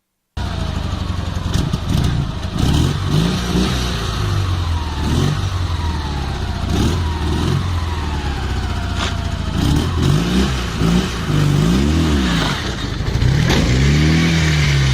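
Motor vehicle engine running hard, its pitch rising and falling again and again as it speeds up and eases off, with a few sharp knocks. It starts abruptly about half a second in.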